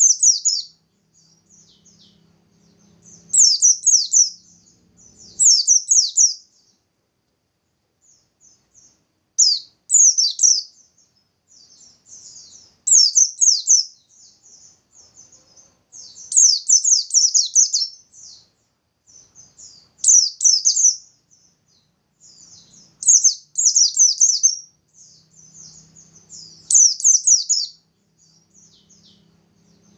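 Pleci (white-eye) singing in full voice: loud, rapid high-pitched song phrases of a second or two, repeated about every three seconds, with soft twittering between them. This is the bird's vigorous 'nembak' burst song, used to set other white-eyes singing.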